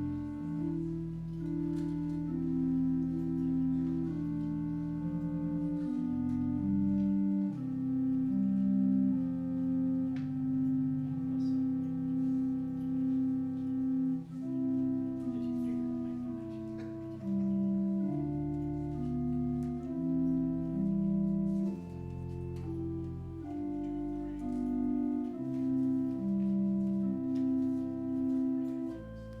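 Church organ playing a slow piece in held chords over a low bass line, the chords changing every second or so.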